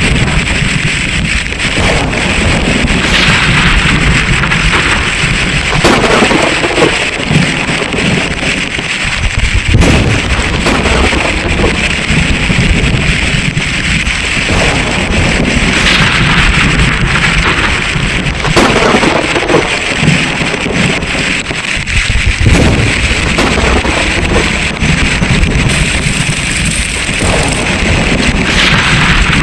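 Heavy rain pouring down, loud and steady, with a dense patter of drops close to the microphone.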